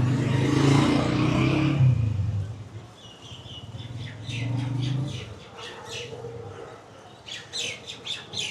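A vehicle engine running close by, fading away after about two seconds, followed by birds chirping in many short, quick calls.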